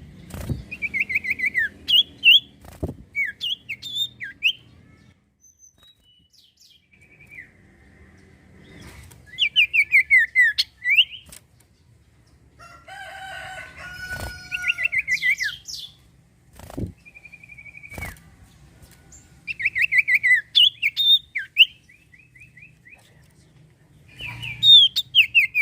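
Common iora (cipoh) singing: phrases of a second or two of rapid chirps and falling whistled notes, with pauses between, and a few sharp knocks in between.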